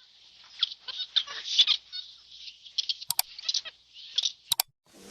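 Birds chirping in many quick, short, high notes, with two sharp clicks about three and four and a half seconds in.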